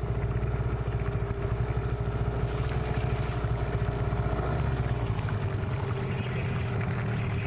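Hidea 9.9 outboard motor running steadily at low trolling speed, a fast even pulsing hum. About five seconds in its deepest rumble drops away.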